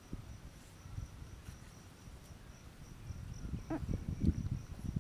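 Steady high insect chirring, most likely crickets, runs under close crunching and chewing of a crisp raw green jujube. The crunching is loudest about three to four and a half seconds in.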